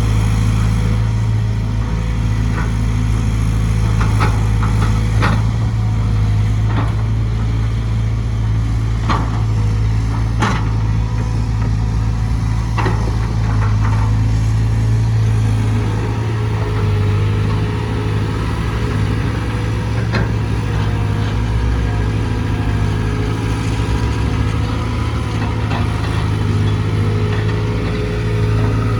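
Cat C4.4 four-cylinder diesel engine of a Cat 320GC excavator running steadily at a constant speed. A few short sharp clicks or knocks are heard over it, mostly in the first half.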